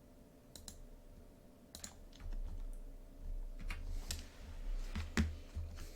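A handful of scattered computer clicks, mouse and keyboard, spaced unevenly with the loudest near the end, over a low rumble.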